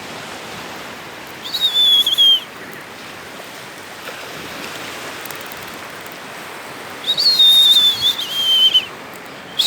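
A person whistling three loud, high, steady notes, each sagging slightly in pitch, the last starting near the end, as a call to a dog. Under them runs a steady hiss of surf and wind.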